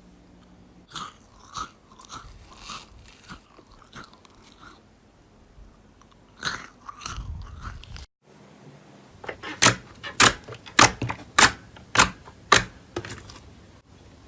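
Close-up ASMR crunching: soft scattered crackles, then after a brief cut about eight seconds in, a run of about eight sharp, crisp crunches roughly two a second.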